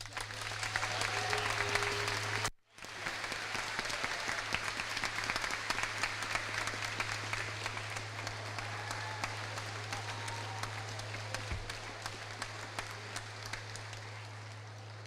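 Audience applauding: many hands clapping steadily, with a brief total dropout about two and a half seconds in. A steady low hum runs underneath.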